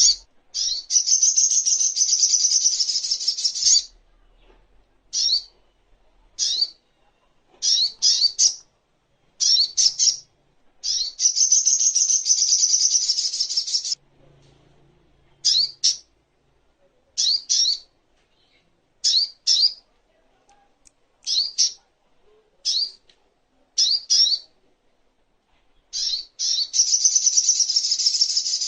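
A sogok ontong bird singing: high, rapid trilling phrases about three seconds long, near the start, around the middle and near the end, with short sharp sweeping chirps, often in pairs, every second or two between them.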